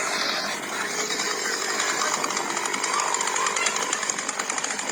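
Chainsaw running steadily, its engine making a fast, even pulsing buzz.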